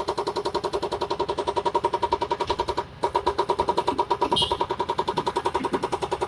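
Kobelco SK200 excavator running, a steady rapid pulsing with a steady whine over it. It drops out briefly about three seconds in, and a short hiss comes a little after.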